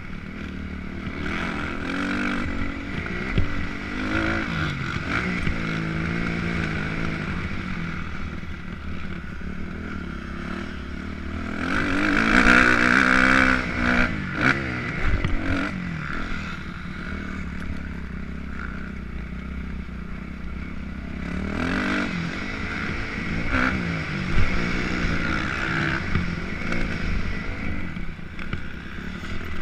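Motocross dirt bike engine ridden hard, its revs rising and falling through the gears over a steady low rumble, loudest about twelve seconds in and again briefly near the three-quarter mark. A few sharp knocks stand out along the way.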